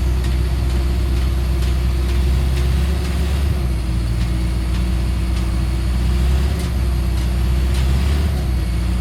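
Truck engine running steadily with a low hum, with a few light clicks or rattles now and then.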